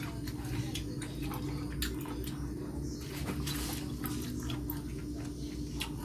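Close-up wet chewing of sauced baby octopus, with many small sticky clicks and squishes from the mouth. A steady low hum runs underneath.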